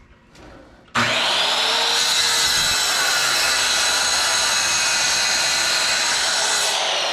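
Craftsman electric miter saw switched on about a second in, its motor whine rising to speed, then running steadily through a cut in wood. The blade's teeth and gullets are gummed up with pitch.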